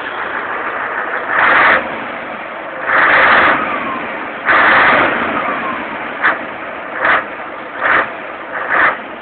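Scania 143M 450's 14-litre V8 diesel running and being revved in repeated surges: three longer pulls, then a string of short blips.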